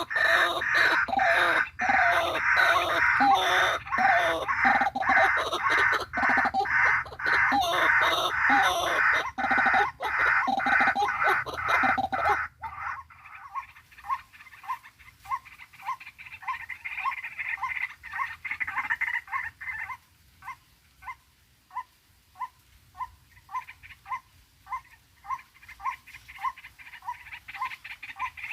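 White-breasted waterhen calls: a loud, raucous chorus of overlapping croaking calls that cuts off abruptly about twelve seconds in. A steady series of single notes follows, about two a second.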